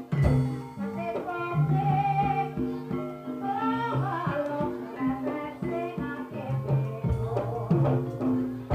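Javanese ebeg (kuda lumping) trance-dance music: pitched gamelan-type instruments and hand-drum strikes with a voice singing over them.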